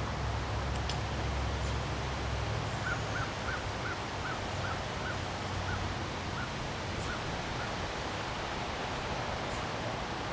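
Wind blowing steadily, buffeting the microphone with a low rumble for the first few seconds. A bird calls a run of about a dozen short, evenly pitched notes, quick at first and then slowing.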